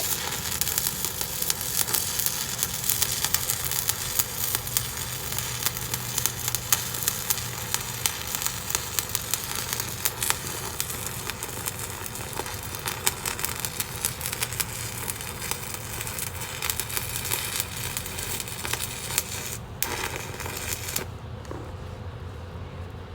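Arc welding on a steel excavator thumb bracket, steady crackling and sizzling as a bead is laid into a ground-out crack in the weld. It breaks off briefly about twenty seconds in and then stops a second later.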